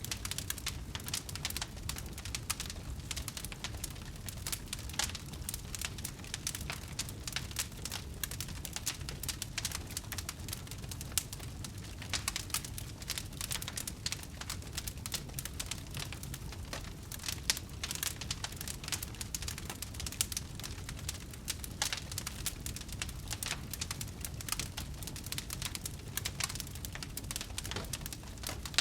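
Wood fire burning steadily, with dense, irregular crackles and pops over a low rumble of flame.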